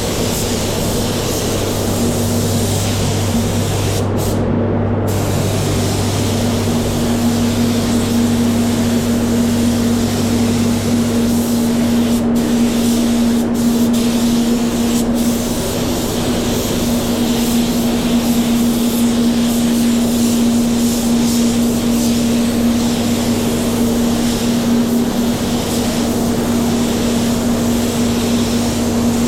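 SATAjet 100 B primer spray gun with a 1.8 nozzle spraying epoxy primer: a steady hiss of compressed air, over a steady low hum.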